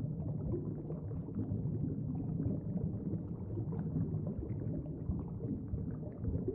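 Steady, muffled underwater-style ambience: a low rumble with faint, irregular crackle.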